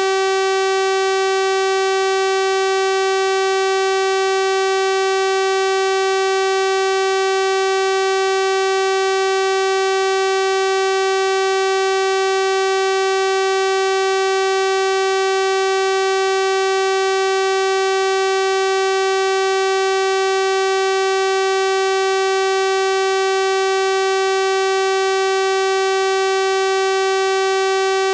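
Synthesized 384 Hz sawtooth-wave tone, held steady and unchanging: a bright, buzzy single pitch rich in overtones.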